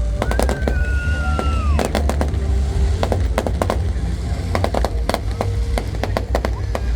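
Fireworks going off: many sharp bangs and crackles throughout, with one long, slightly falling whistle over the first couple of seconds, over a steady low rumble.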